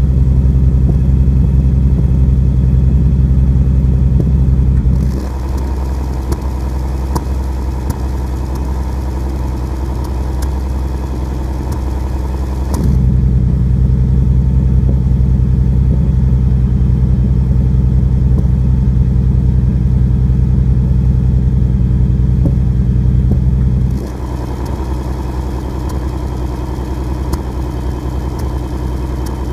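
3.7-litre V6 Ford Mustang idling steadily through an XForce Varex variable exhaust. The note switches between a loud, deep idle and a quieter, less bassy one as the exhaust valves change position: it drops about five seconds in, comes back up near the middle, and drops again near the end.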